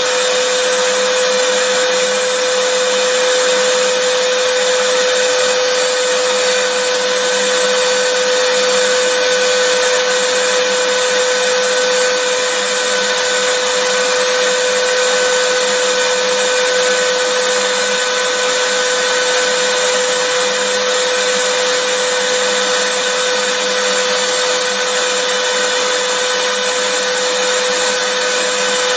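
Vacuum cleaner motor running continuously at a steady pitch: an even rushing hiss of air with a constant whine.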